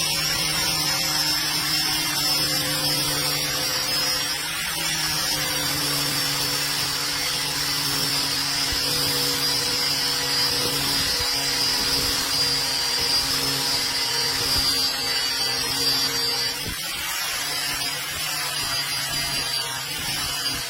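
Electric power tool running steadily under load, with a constant motor hum and a high whine over a hiss of abrasion.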